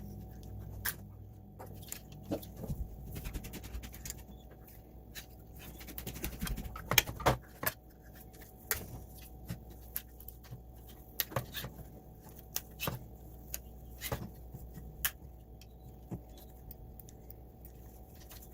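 Irregular sharp clicks and knocks of robot-vacuum parts being handled and worked on, a cluster of louder knocks about seven seconds in, over a low steady hum.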